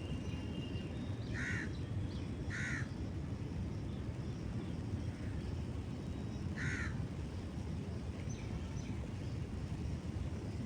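A crow cawing three times, short single caws about a second in, about three seconds in and near seven seconds, over a steady low rumble.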